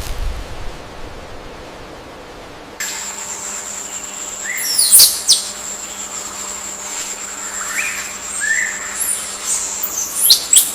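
Forest ambience of birds chirping and calling, with several short chirps and quick sweeping notes over a steady high-pitched whine. It comes in suddenly about three seconds in, after a soft hiss.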